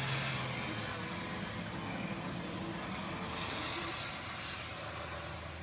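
A motor vehicle running steadily: a low engine hum under a wash of noise.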